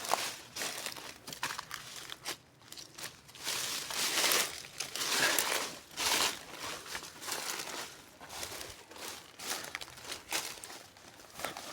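Footsteps crunching and crackling through dry leaves and brush, in irregular bursts.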